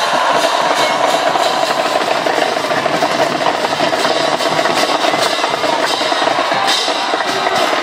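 School band playing at full volume, with drums and snare drums to the fore.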